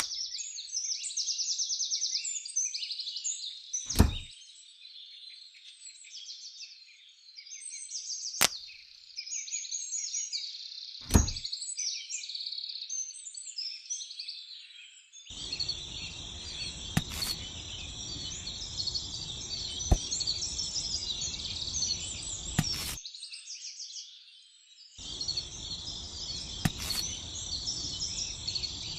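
Dense high-pitched chirping of birds and insects, broken by three sharp knocks in the first half. About halfway through, a low, noisy rattle starts up, stops for about two seconds, then starts again.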